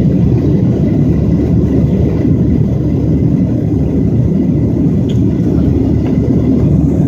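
Steady low rumble of a Boeing 737 airliner's jet engines and rushing air heard inside the passenger cabin while climbing out after takeoff.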